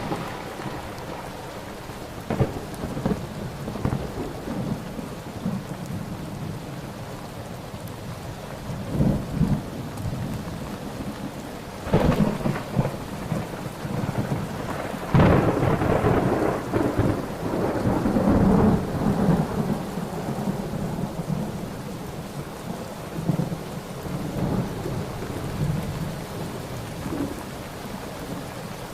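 Thunderstorm: steady rain with thunder. There are sharp cracks about two seconds in and again near the middle, and the second is followed by several seconds of rolling rumble.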